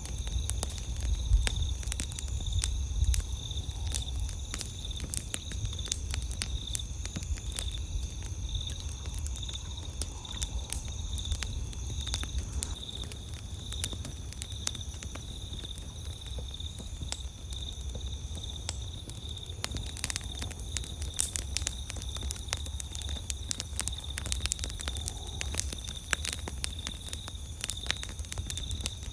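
Campfire crackling with frequent sharp pops, over the steady high trill of night insects and a low rumble underneath.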